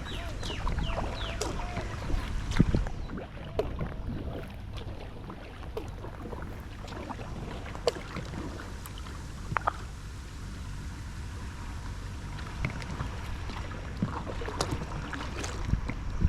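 Sea waves washing and lapping at the shore, a steady wash with scattered small splashes and clicks of water.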